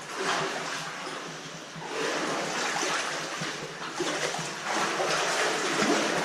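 Water running and splashing through a cave stream passage, a steady rushing noise that swells and dips.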